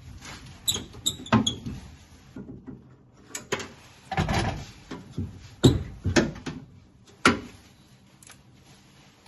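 Hand tools working at the window-mechanism screws inside a 1967 Mustang's door: irregular clicks and knocks with a few short scrapes, dying away after about seven seconds. Most of the screws are stuck fast and will not turn out.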